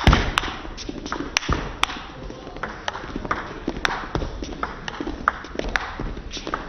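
Sharp clicks of a table tennis ball, irregularly spaced, with a louder thud at the very start.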